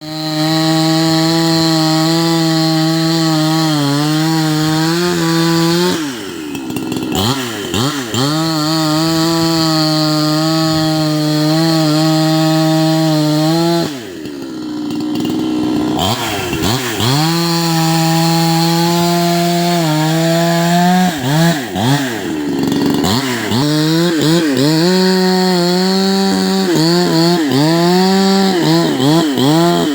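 Two-stroke chainsaw cutting into a tree, the engine holding a steady pitch through long cuts. Its speed swoops up and down about six, fourteen and twenty-two seconds in as the throttle is eased off and opened again between cuts.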